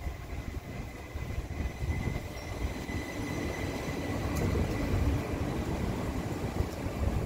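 Rail vehicle running along the track: a steady low rumble of wheels on rails with a thin high whine above it.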